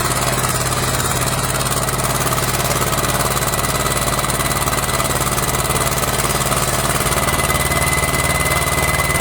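Tractor engine running steadily with an even, fast pulse, a thin steady whine joining about two seconds in.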